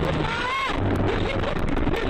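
Car engine and road noise from a dashcam recording, steady throughout, with one short rising-and-falling tone about half a second in.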